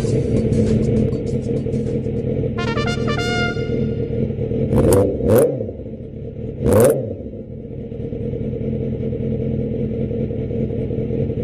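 A vehicle running steadily under background music, with three loud short rushes of sound about five to seven seconds in.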